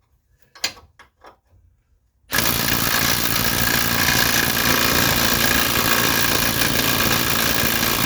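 A few light metallic clicks. Then, a couple of seconds in, a machine starts abruptly and runs loud and steady with a faint whine, mechanical noise from the suspension repair on the car.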